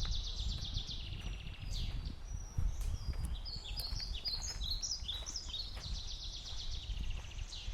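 Small songbirds singing: fast trills and short chirping phrases repeating throughout, over a steady low rumble.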